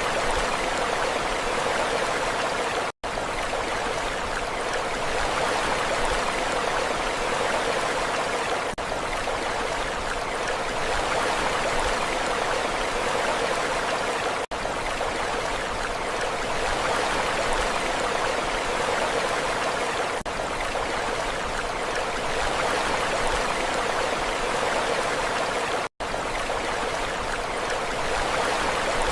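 Sea waves washing steadily, the surf swelling and easing every five or six seconds. The sound cuts out for an instant twice, about three seconds in and near the end.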